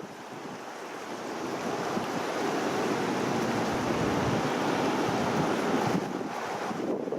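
Rushing noise of wind and water at the shore, swelling over several seconds and dropping off sharply about six seconds in.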